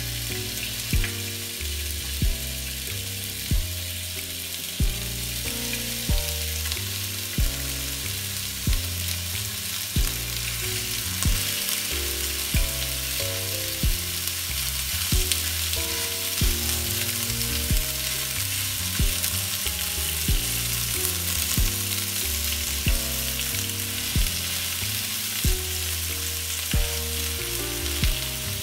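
Chicken and spring onion skewers sizzling and frying in hot oil in a frying pan, the sizzle growing as more skewers go in. Background music with a steady beat, about one thump every 1.3 seconds, plays under it.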